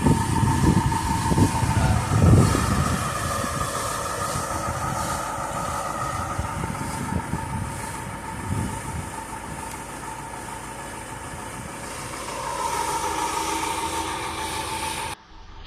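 Sailboat's inboard diesel engine running steadily under way, a continuous rumble with a steady whine on top; it cuts off abruptly near the end.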